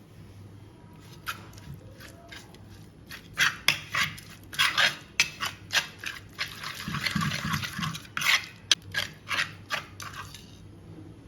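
Kitchen utensils knocking, clinking and scraping against cookware, an irregular run of sharp hits with a longer scraping stretch about seven seconds in.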